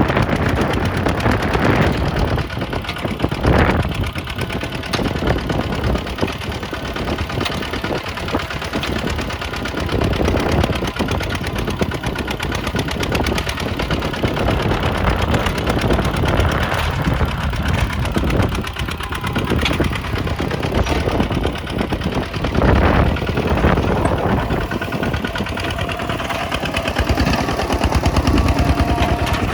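Kubota tractor's diesel engine running steadily, with a rapid knocking beat.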